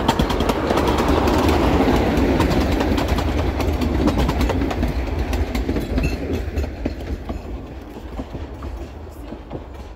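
Narrow-gauge diesel locomotive and passenger car passing close by: the engine rumbles and the wheels click over the rail joints. It is loudest in the first few seconds, then fades as the train moves off.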